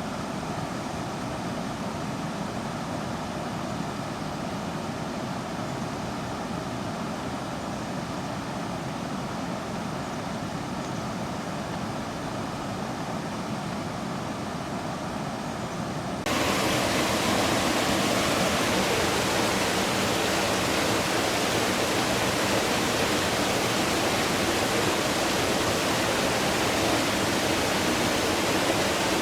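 Steady rush of running water. About sixteen seconds in it switches abruptly to a louder, brighter rush.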